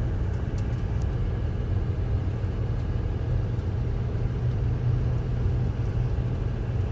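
Steady low road rumble of a vehicle driving, even throughout with no gear changes or revving.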